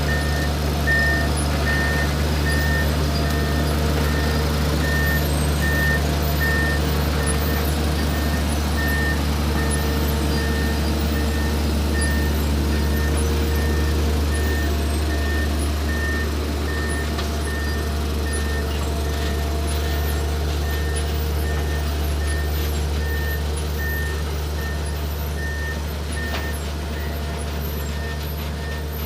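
Kirow railway crane's diesel engine running steadily under load, with its warning beeper sounding a short high beep about once a second while the crane moves.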